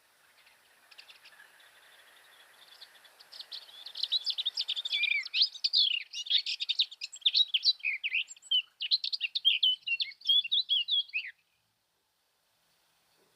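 Blue tit calling in a rapid run of high chirps and trills, faint at first and loud from about four seconds in, then cutting off suddenly near the end. Played back about a third faster than real time, which raises its pitch.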